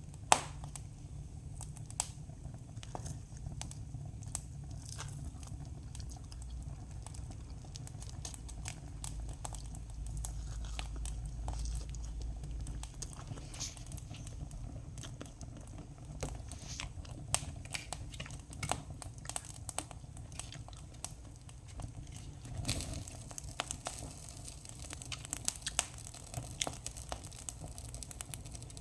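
Wood campfire crackling, with irregular sharp pops over a steady low rumble; the pops come thicker near the end.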